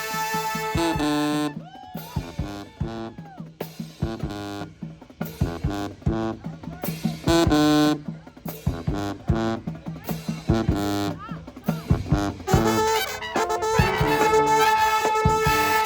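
Marching band brass and drums playing. A held chord breaks into short, punchy stabs with drum hits and a few sliding horn notes, and full held brass chords come back near the end.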